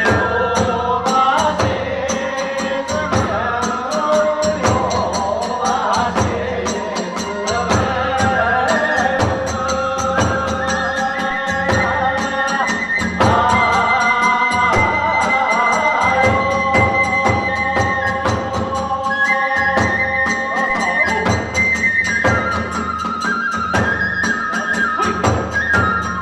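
Live Hiroshima kagura ensemble: a bamboo flute plays a held, sliding melody over a fast, steady beat of drums and small hand cymbals.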